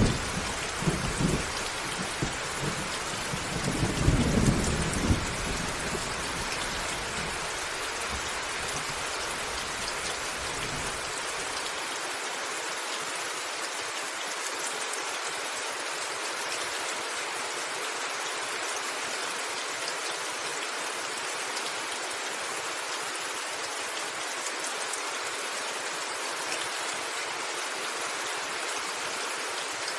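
Steady heavy rain falling on a roof, with thunder rumbling over the first few seconds, loudest about four seconds in; the rumble fades out by about twelve seconds in, leaving the rain alone.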